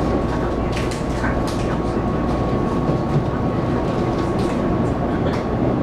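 Interior running sound of a Taiwan Railways local train: a steady rumble of wheels on rail heard inside the passenger car, with a faint steady whine and scattered short clicks.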